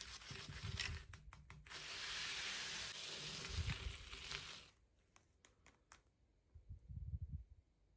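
Toy packaging being handled and torn open: a few crinkles and clicks, then about three seconds of steady tearing rustle that stops sharply near the middle, followed by a few light taps and handling bumps.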